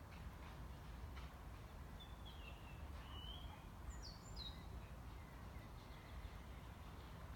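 Faint outdoor ambience: a steady low rumble, with a bird giving a few short, falling chirps from about two to four and a half seconds in.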